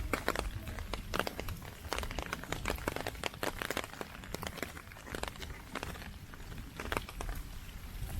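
Typhoon rain: an irregular crackling patter of drops striking close to the microphone, several a second, over a steady low rumble.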